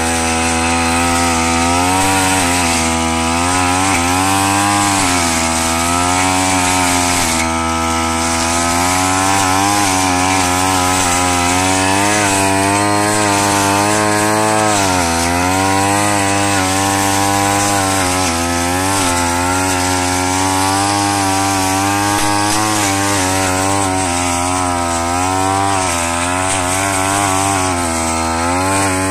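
Brush cutter engine running continuously at high speed, its pitch repeatedly dipping and recovering as the blade cuts through rice straw.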